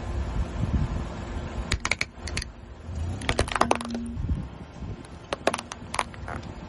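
Crunchy items cracking and snapping under a car tyre as it rolls over them, in three short bursts of crisp cracks over a low rumble.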